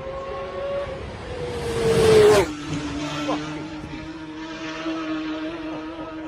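Racing motorcycle passing at high speed: the engine note climbs as it approaches, is loudest about two seconds in, then drops sharply in pitch as it goes by and holds the lower note as it moves away.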